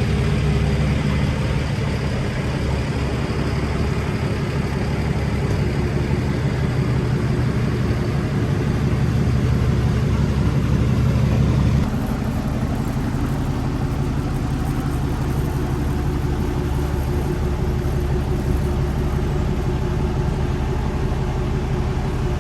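Diesel truck engine running steadily, its sound changing abruptly and dropping slightly about halfway through.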